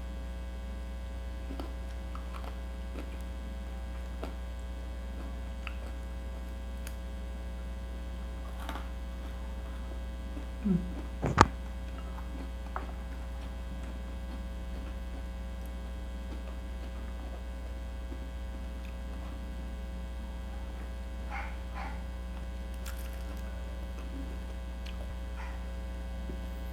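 Steady electrical mains hum with a few faint scattered ticks. About eleven seconds in there is a short low sound, followed at once by one sharp click.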